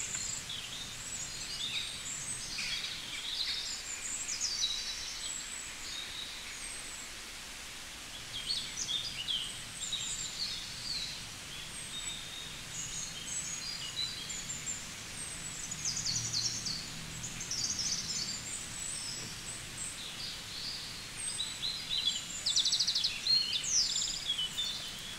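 Birds chirping in many short, high calls, some of them quick trills, over a steady background hiss.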